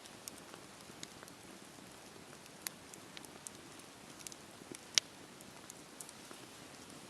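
Campfire burning and crackling: scattered sharp pops over a soft, steady hiss, the loudest pop about five seconds in.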